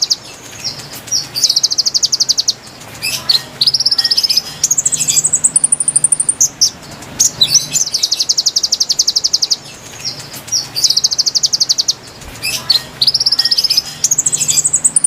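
Song of a konin bird played as a lure recording: fast, high trills alternating with short rising whistled notes. The same phrase repeats about every nine seconds.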